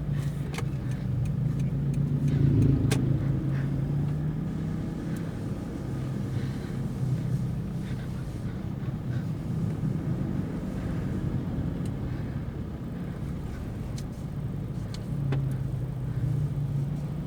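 Toyota Fortuner's 2KD-FTV 2.5-litre four-cylinder turbodiesel and road noise heard from inside the cabin while driving: a steady low drone that swells briefly a couple of seconds in. A few faint clicks are scattered through it.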